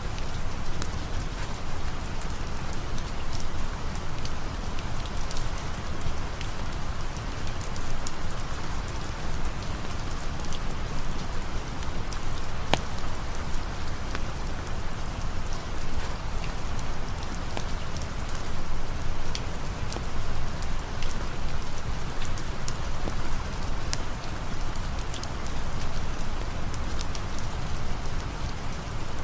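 Steady rain falling, an even hiss with scattered faint sharp ticks through it.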